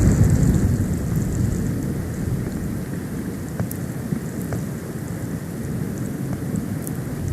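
Snowstorm wind buffeting the nest-cam microphone: a steady low rumble, with a stronger gust right at the start and a few faint ticks scattered through.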